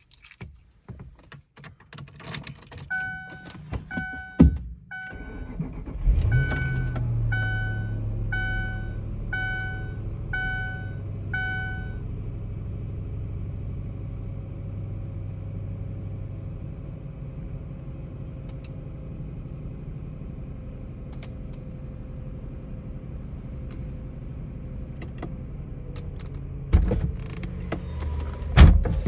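Ford Thunderbird cold start: a warning chime beeps about twice a second, the engine cranks briefly and catches about six seconds in, then settles into a steady fast cold idle that slowly eases down. Two loud knocks near the end.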